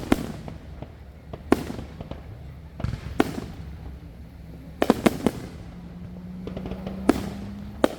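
Consumer fireworks going off: about eight sharp bangs at irregular intervals, with three in quick succession around five seconds in.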